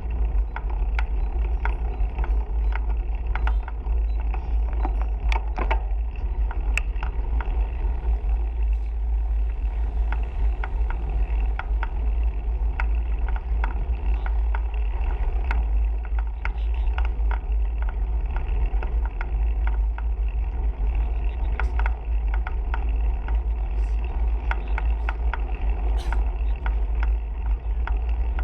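Steady heavy wind rumble on the microphone of a camera carried on a moving bicycle, with road and bike noise and many scattered short ticks and rattles.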